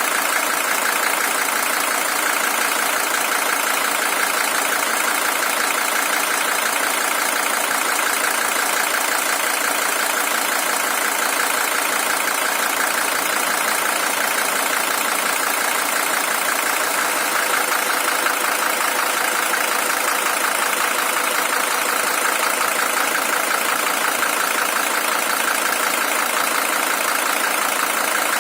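Mercedes-Benz W123 300TD's OM617 five-cylinder diesel engine idling steadily, the original engine with about 620,000 km on it.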